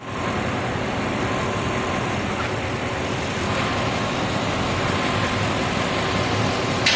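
A car engine running steadily, with one sharp click near the end.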